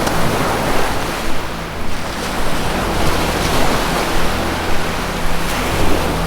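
Ocean waves washing in a continuous surf that swells and eases, with a low, steady ambient music drone underneath.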